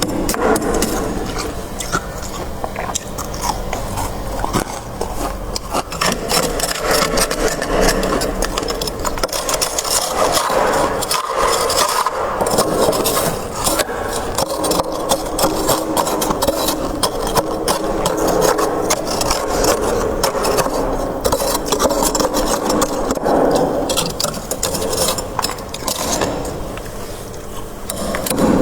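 Crisp freezer frost crunching and scraping in a dense, continuous run of small crackles.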